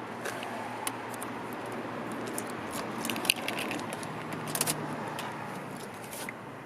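Car keys jangling and clicking at the ignition, scattered sharp clicks over a faint steady hum, while the 2L-TE diesel's glow plugs pre-heat before cranking.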